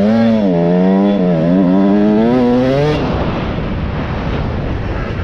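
Motorcycle engine running, its pitch wavering up and down, cutting off abruptly about three seconds in; a steady rushing noise follows.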